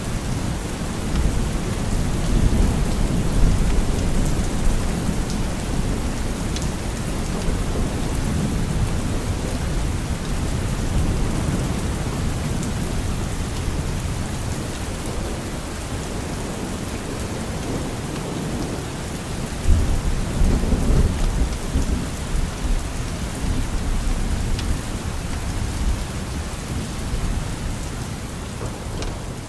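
Steady rain with a low rumble of thunder underneath, the rumble swelling about two-thirds of the way through.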